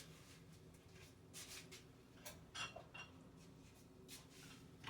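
Near silence with a few faint clinks and taps of kitchen utensils and dishes against a pot.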